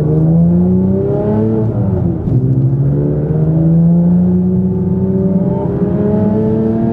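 Porsche 911 GT3's naturally aspirated 3.6-litre flat-six pulling under acceleration, its pitch rising. The pitch drops for a gear change a little under two seconds in, then climbs steadily again.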